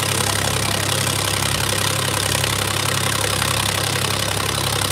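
Tractor's diesel engine idling steadily at an even pitch, with no revving.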